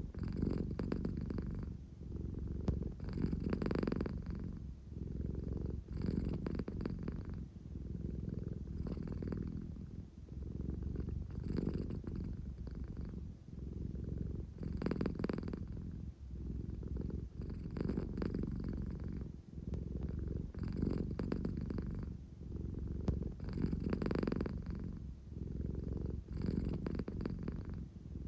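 American Shorthair cat purring continuously, a low rumble that swells and eases in a regular cycle about every three seconds.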